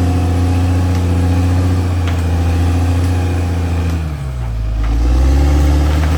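CAT D6R XL bulldozer's diesel engine running steadily; about two-thirds of the way through its pitch sags and then climbs back, growing louder.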